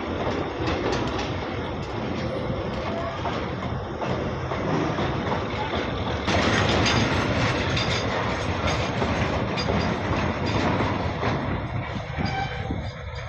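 Indian Railways train running over points, its wheels clattering steadily; the clatter gets louder about halfway through.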